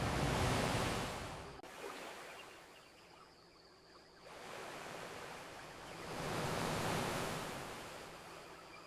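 Ocean waves washing onto a beach: one wave swells and breaks at the start, then after a quieter lull a second wave rises and breaks about six to seven seconds in.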